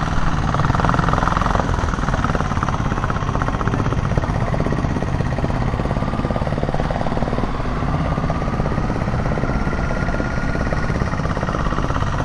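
Motorcycle engine running at a steady pace while riding, with wind noise over the microphone. A faint, slowly rising whine sounds in the second half.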